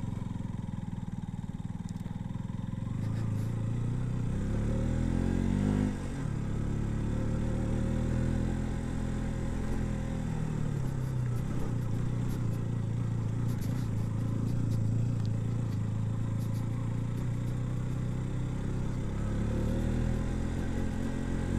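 KTM RC 200's single-cylinder engine running at low speed, its pitch rising and falling with the throttle and dropping sharply about six seconds in.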